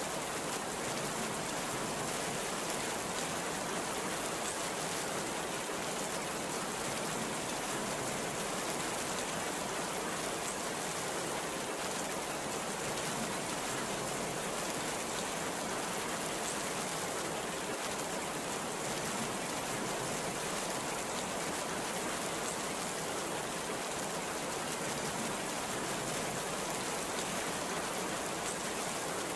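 Heavy rain pouring down in a steady, even hiss, with no thunderclaps.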